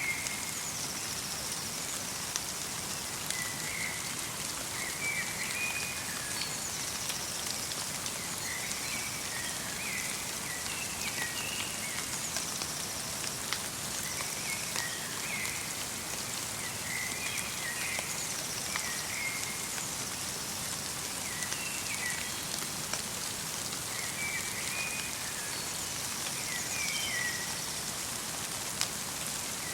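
Light rain pattering steadily in a winter forest. Small birds chirp in short, repeated phrases every couple of seconds.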